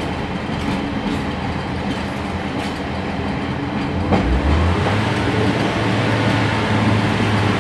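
Interior running noise of a Class 142 Pacer diesel railbus on the move: a steady rumble and rattle from the wheels on the track. About four seconds in there is a sharp knock, after which a steady low drone grows stronger.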